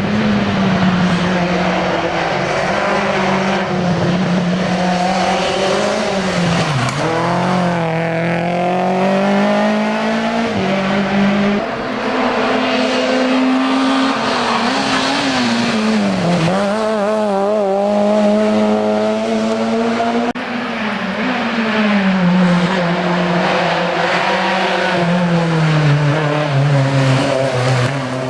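Rally car engine running hard, its pitch climbing and dropping repeatedly as it shifts gears and slows for bends. The sound changes abruptly about twelve and twenty seconds in.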